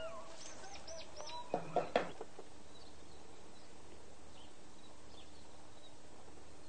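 Birds calling against a steady background hiss: a quick run of high chirps, then three loud short sharp sounds about one and a half to two seconds in, then only faint scattered chirps.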